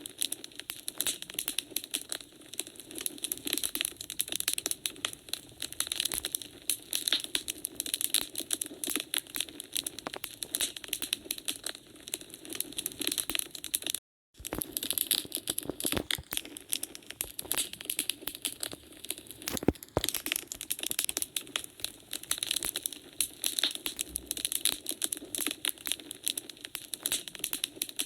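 Wood fire crackling, a dense, irregular run of small pops and snaps over a soft hiss. The sound cuts out completely for a moment about halfway through, then resumes.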